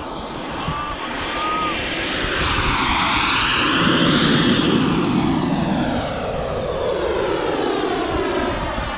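Radio-controlled model jet making a low pass: a loud rushing jet noise that swells to its loudest about four seconds in and then fades as it goes by.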